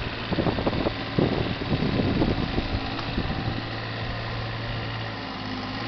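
A digger's engine running steadily, with a run of irregular knocks and clatter over the first three seconds or so.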